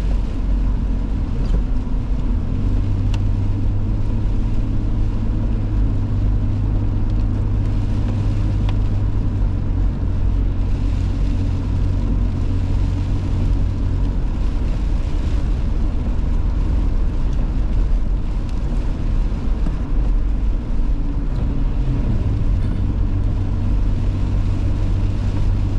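Car driving: a steady low engine drone over tyre and road noise. The drone rises a couple of seconds in, eases off around the middle and picks up again near the end.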